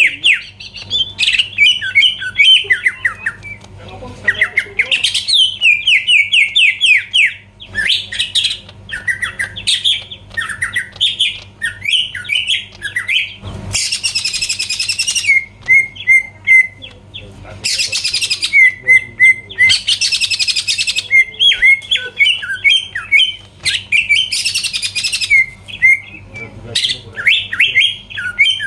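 Cucak ijo (green leafbird) singing at full tilt: fast runs of rapid, repeated chirping notes, broken four times by harsh hissing calls of a second or two.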